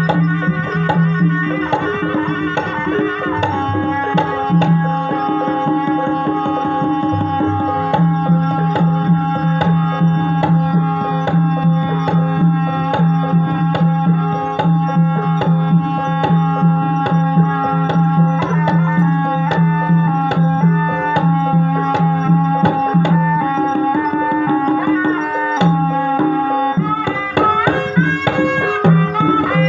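Ebeg gamelan music: kendang hand drums playing a quick, dense pattern under a held melody line that steps between notes, running on without a break.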